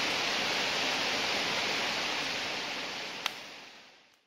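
Steady hiss of rain falling, with a single sharp tap of a drop about three seconds in, fading out to silence near the end.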